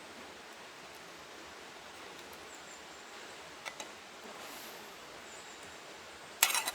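Quiet outdoor background noise with a couple of faint clicks midway and a short, sharp clatter near the end.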